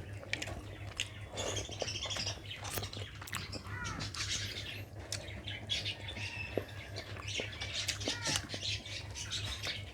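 Close-up eating sounds: chewing and wet mouth clicks from someone eating rice with curry, with short bird chirps in the background and a low steady hum.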